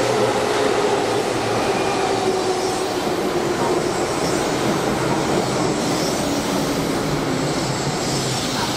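Keihan commuter electric train pulling in alongside the platform: steady wheel-on-rail rumble with a motor whine that falls in pitch over the first few seconds as the train brakes.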